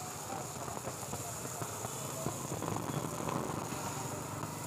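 Fish frying on a hot iron tawa: a steady sizzle and hiss. Short scrapes and clicks from a metal spatula working against the griddle come through in the middle stretch.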